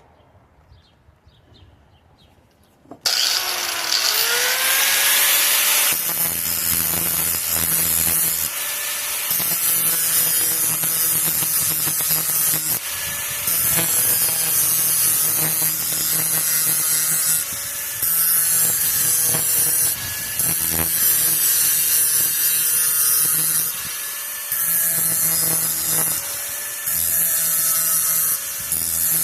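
Electric grinder starting up about three seconds in, then grinding the worn metal edge of a lawn mower power rake (dethatching) blade to clean it up. The grinding sound dips briefly every few seconds as contact with the edge changes.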